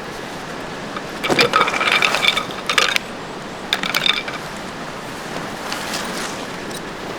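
Metal tent hardware clinking and rattling in three bursts, the first and loudest lasting over a second, while a tent is being set up.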